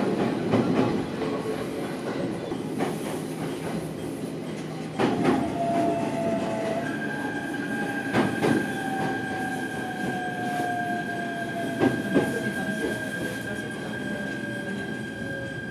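Running noise inside a local electric train slowing into a station: wheels knock over rail joints and points every few seconds. A whine slowly falls in pitch as the train slows, and a steady high-pitched squeal starts about seven seconds in.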